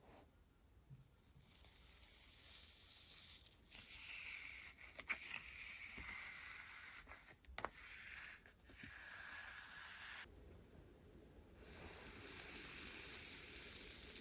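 Slime being squished and stretched by hand, giving sticky crackling noise in stretches of a few seconds, with a few sharp pops in the middle.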